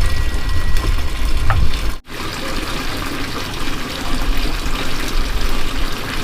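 Water running, a steady rushing noise, broken by a brief gap about two seconds in.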